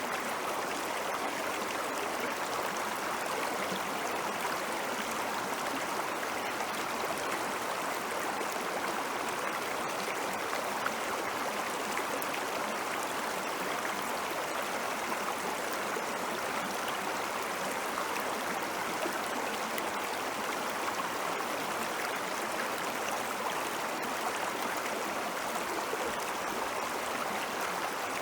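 Ice-melt water flowing in a stream: a steady, even rush of moving water with fine splashy detail and no change in level.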